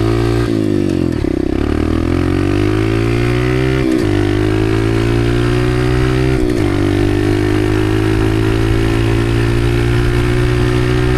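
Dirt bike engine accelerating and shifting up: the pitch climbs, drops abruptly at a gear change about four seconds in and again about six and a half seconds in, then holds steady at speed.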